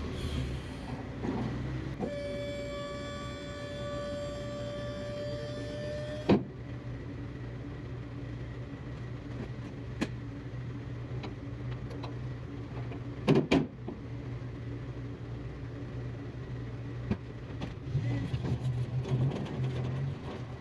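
A vehicle engine running steadily, with a steady electric-motor whine for about four seconds that stops with a click, and a few sharp knocks later on.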